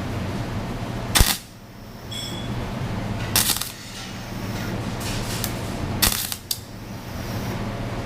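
Short, sharp welder bursts, about five or six of them a second or two apart, as a small hole in a gutted fuel pressure regulator is tack-welded shut, over a steady low hum.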